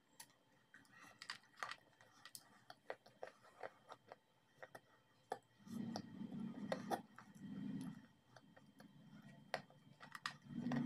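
Crisp crunches and snaps as white chalk-like clay sticks are bitten and handled close to the microphone, a string of short sharp clicks. From about six seconds in, louder low muffled chewing sounds come in patches.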